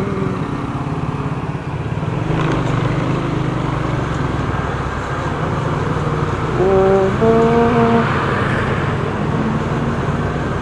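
Motorcycle running steadily at riding speed through traffic, with engine and road noise throughout. A person's voice comes in briefly, with a few held notes, about seven seconds in.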